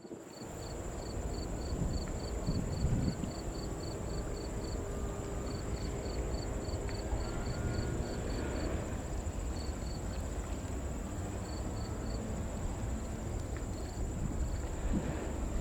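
Insects chirping in trains of short even pulses, about three a second, over a steady high-pitched buzz, with wind noise and a low rumble underneath.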